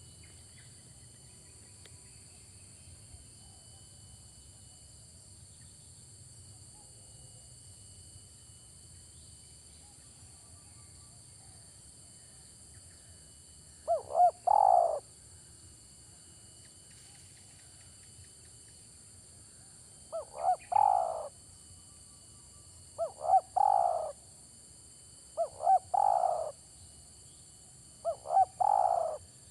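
Spotted dove cooing: five call phrases a few seconds apart, starting about halfway through. Each phrase is a couple of short notes followed by a longer, falling coo.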